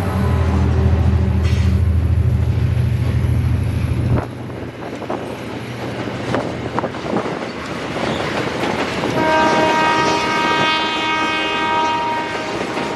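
Diesel freight locomotive passing close, its engine running as a deep drone that drops away sharply about four seconds in, followed by the wagons' wheels clicking over the rail joints. From about nine seconds in, a multi-tone air horn sounds steadily.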